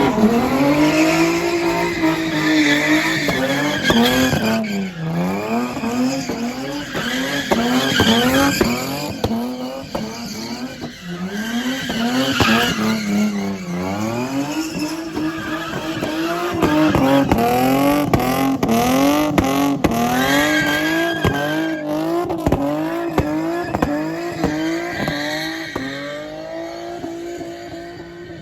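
A car drifting: the engine is held high in the revs, its pitch rising and falling with the throttle and dipping a couple of times, while the tyres squeal.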